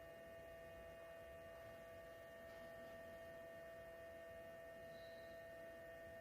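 Near silence: a faint steady electrical hum made of several fixed tones over light hiss.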